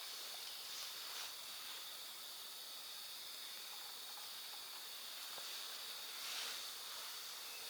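Cicadas droning steadily at a high pitch over a soft background hiss, swelling briefly about a second in and again about six seconds in.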